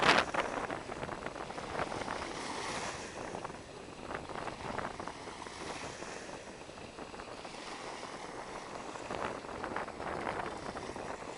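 Black Sea waves washing onto a sandy beach, swelling and easing every few seconds, with wind buffeting the microphone. A brief knock right at the start.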